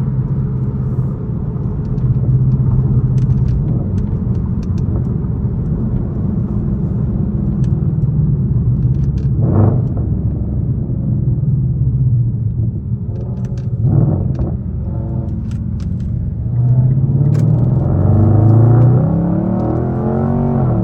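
Straight-piped Infiniti M56's 5.6-litre V8 exhaust running at low revs with a steady low rumble, with two brief throttle blips in the middle. Near the end the revs climb steadily, then drop back.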